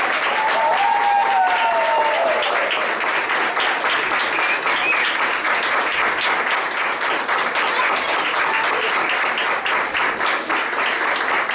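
Audience applauding steadily, with a voice or two calling out briefly in the first couple of seconds.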